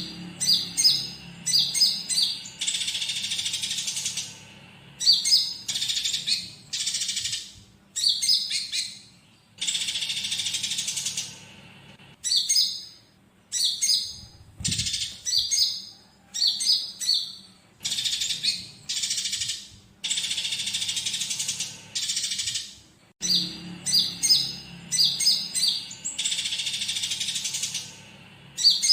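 Konin songbird singing in a repeating pattern: a run of quick, sharp, high chirps followed by a buzzy rattle about a second and a half long, over and over every few seconds, with fighting-sparrow (gereja tarung) chatter worked into the song.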